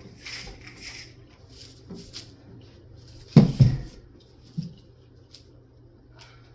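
A cat moving about on a cat tree: short rustling and scratching in the first two seconds, then a pair of soft thumps about three and a half seconds in, the loudest, and one more a second later.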